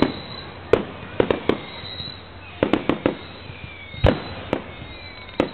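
Fireworks display: a string of sharp bangs and pops from aerial shells bursting at irregular intervals, about a dozen in all, the loudest about four seconds in.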